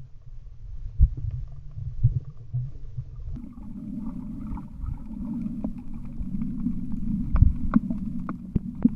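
Muffled underwater rumble and sloshing picked up by a camera held underwater while snorkeling. A low steady hum joins about three seconds in, and scattered short clicks come more often near the end.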